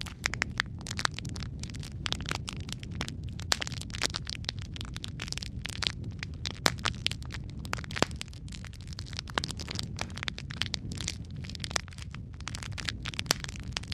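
Wood fire crackling and popping in a fireplace: frequent irregular sharp snaps over a steady low rumble of burning.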